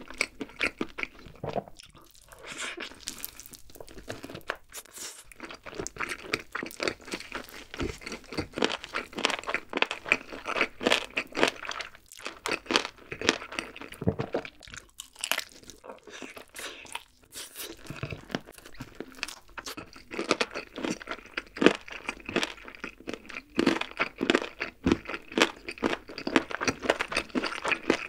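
Close-miked chewing and biting of a glazed grilled chicken drumstick, a dense run of quick crunchy mouth clicks broken by a few short pauses.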